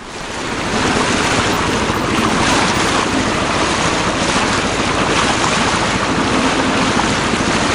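Steady, loud rushing noise, fading in over the first second.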